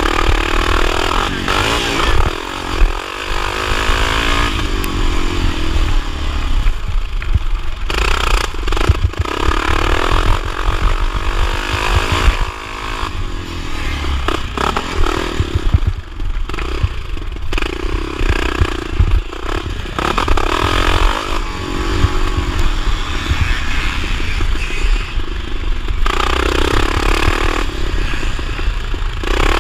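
Vintage motocross motorcycle engine under race load, revving up and dropping back again and again as it is throttled and shifted, over a heavy low rumble.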